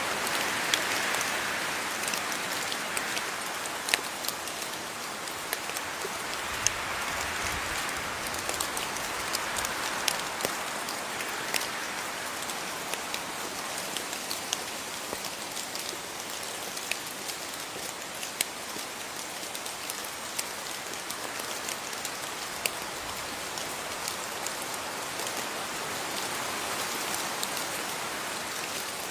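Steady rain falling, an even hiss with many sharp drops pattering close by throughout.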